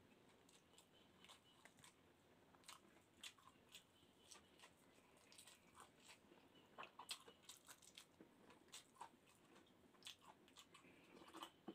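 Faint close-up eating sounds: chewing and lip smacks, heard as scattered soft clicks, as a grouper head and rice are eaten by hand.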